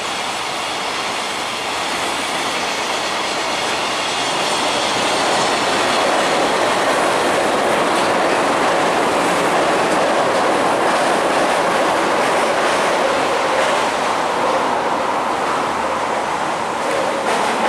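Trains passing close by: a JR container freight train rolling along the ground-level track, and a Meitetsu 2000-series μSKY airport express crossing the steel girder viaduct overhead. The noise is continuous and grows louder about five seconds in.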